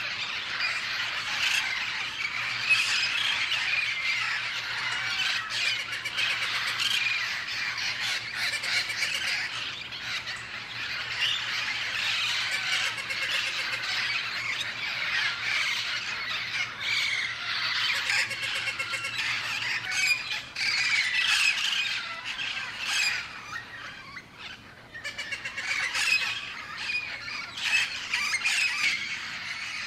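A flock of feral Amazon parrots squawking and calling continuously, many harsh calls overlapping, with a short lull about three quarters of the way through.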